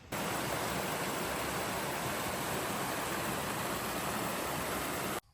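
Steady rush of running water, like a mountain stream or small waterfall, that cuts in abruptly just after the start and stops suddenly near the end.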